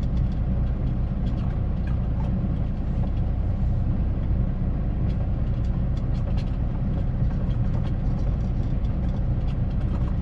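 A semi-truck's engine and road noise drone steadily and low while it drives down the highway.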